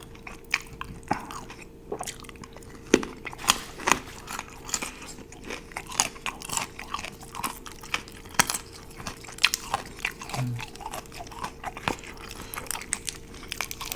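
Close-miked chewing of food, with irregular crisp crunches and sharp mouth clicks.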